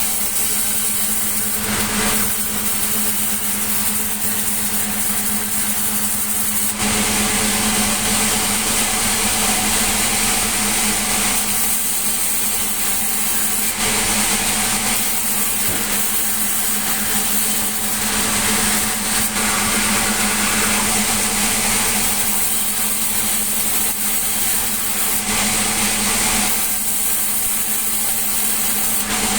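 Sawmill machinery running steadily: a constant hum under a bright hiss that changes every few seconds.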